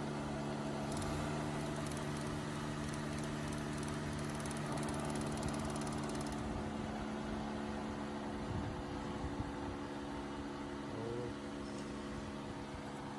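Suzuki Mehran's three-cylinder 800 cc engine idling steadily, running on a Honda 125 motorcycle carburettor fitted in place of its own.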